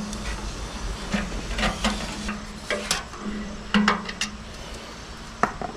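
Irregular sharp clicks and light metallic ticks over a faint hiss from inside a steel motorcycle fuel tank freshly sprayed with WD-40 after being heated dry.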